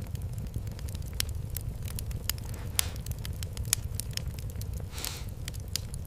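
Fireplace fire crackling: frequent sharp, irregular pops over a steady low rumble, with a short soft hiss about five seconds in.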